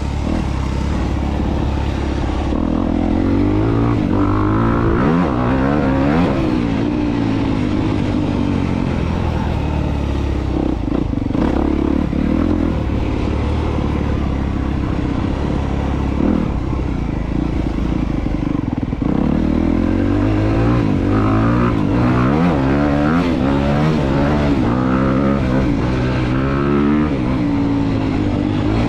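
2022 Honda CRF250R's single-cylinder four-stroke engine under riding load, its revs rising and falling again and again as the throttle is worked on and off.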